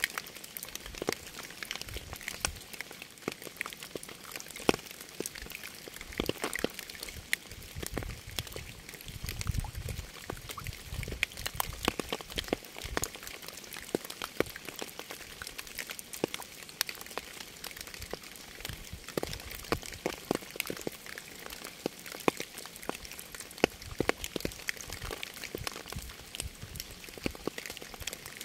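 Rain falling: a steady hiss with many separate drops tapping at irregular intervals.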